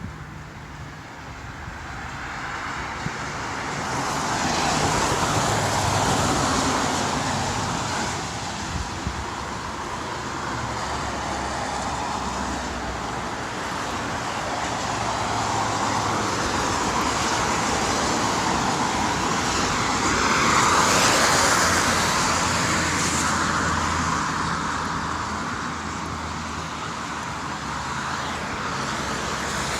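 Road traffic: cars driving past on a wet road, their tyres hissing. The sound swells as a car passes a few seconds in, and again more strongly about two-thirds of the way through.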